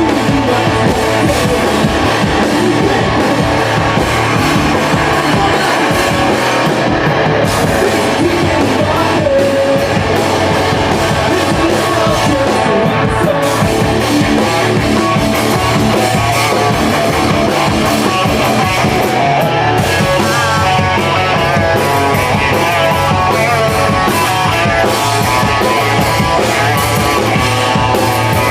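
Rock band playing loud and steady, with electric guitar and drum kit.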